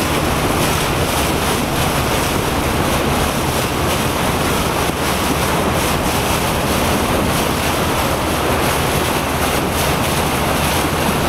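Steady wind noise buffeting the microphone, with a faint steady low hum underneath.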